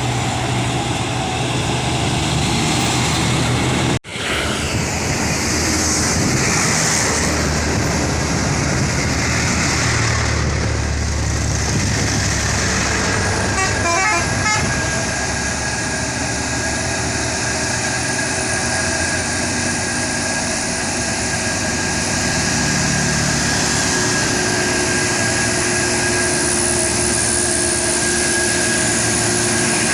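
Heavy truck engine running under load as the truck climbs an uphill grade, with vehicle horn toots mixed in.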